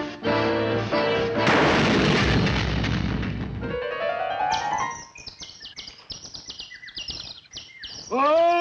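Cartoon soundtrack: orchestral music breaks into a loud noisy crash, followed by a rising whistle-like glide. A quick run of short high chirps and clicks comes next, and near the end a loud, held, voice-like cry.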